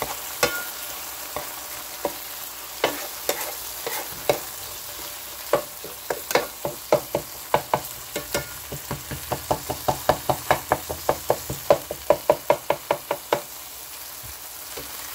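Sliced steak and peppers sizzling in an electric skillet while a silicone spatula stirs and chops them, tapping and scraping against the pan. The taps are scattered at first, then come quickly at about four a second, and stop about two seconds before the end.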